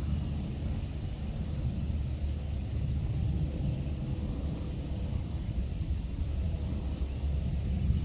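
A steady low outdoor rumble, with faint high chirps over it.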